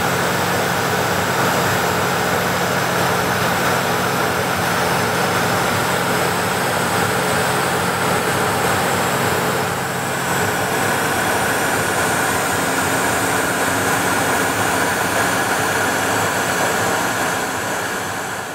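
Steady in-flight cockpit noise of a Learjet 35: a loud, even rush of airflow with a steady hum from its twin Garrett TFE731 turbofans. The low hum shifts slightly a little past halfway, and the sound begins to fade near the end.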